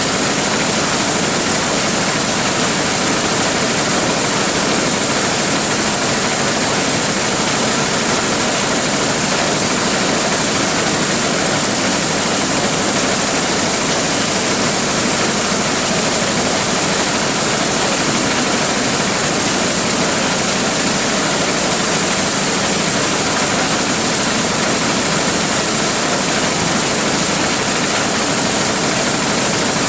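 Large engine-driven corn sheller running steadily: a loud, even, unbroken machine noise with a constant high hiss.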